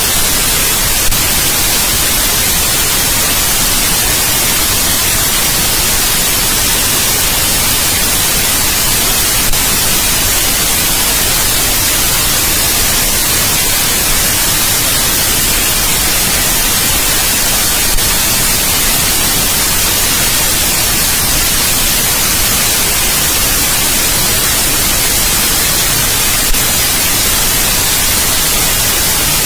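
Steady, loud white noise: an even hiss heavy in the high end, with a faint click about every eight and a half seconds.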